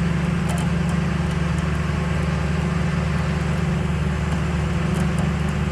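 Tow truck's engine running at a steady, even speed while its winch pulls a stuck van out of the mud.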